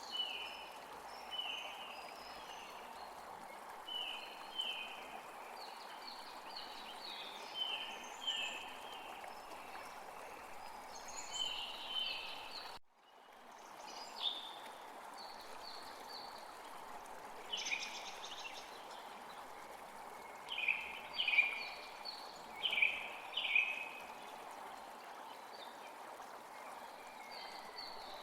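Small birds chirping in quick runs of short, falling calls over a steady rush of running water. The sound cuts out for an instant about halfway through.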